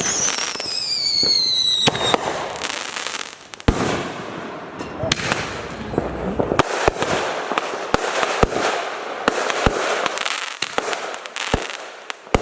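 Fireworks going off: a whistling firework falling in pitch for about the first two seconds, then a run of sharp bangs and crackling pops.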